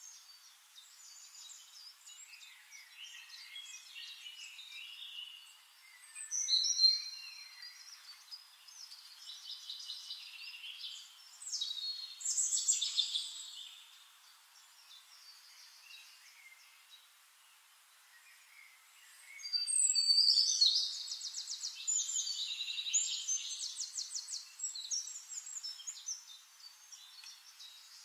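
Songbirds singing in a series of high chirping and whistled phrases. A longer run of rapid trills starts about twenty seconds in, after a quieter lull in the middle.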